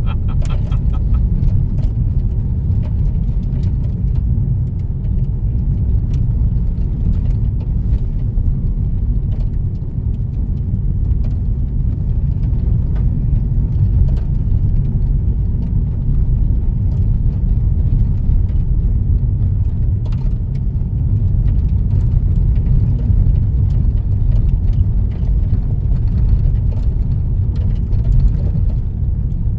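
Car driving on a dirt road, heard from inside the cabin: a steady low rumble of tyres and engine, with scattered light ticks.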